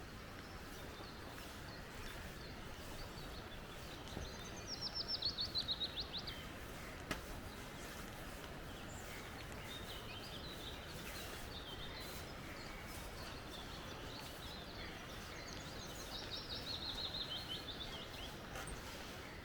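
Steady rush of a flowing creek, with a small bird twice singing a fast trill of rapid notes that falls in pitch, about five seconds in and again near the end. A single sharp click about seven seconds in.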